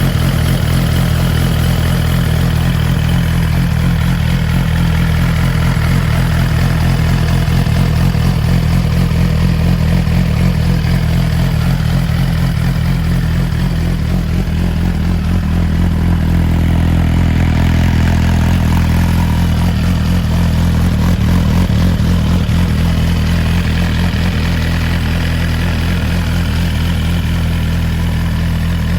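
Suzuki GSX-R1000R's inline-four engine idling steadily through an aftermarket Yoshimura exhaust.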